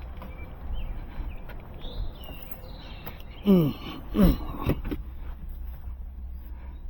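Two short voice-like sounds with falling pitch about halfway through, over a low steady rumble, with birds chirping faintly.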